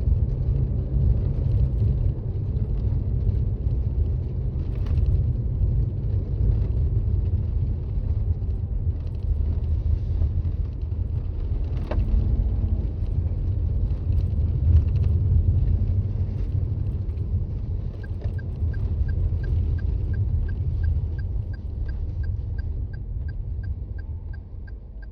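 Steady low road and drivetrain rumble of a Toyota Raize driving on a snow-covered road, heard from inside the car, with a single click about halfway. About two-thirds of the way in, a regular ticking starts, about two ticks a second, and the rumble eases near the end.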